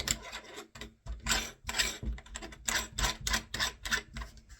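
Metal door-handle parts clicking and scraping in quick, irregular strokes as a cover plate is fitted over the handle's backplate on the door.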